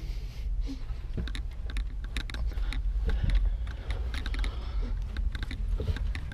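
Irregular crackling clicks and scuffs of someone crawling through a crawl space under a house, over a steady low rumble of handling noise on the microphone.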